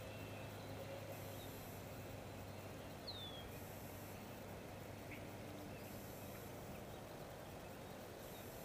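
Faint outdoor background with a steady low hum, and a bird giving a single short falling chirp about three seconds in.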